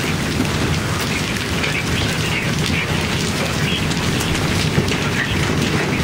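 Hailstones and rain pelting down: a dense, steady hiss with many small, sharp impacts clattering throughout.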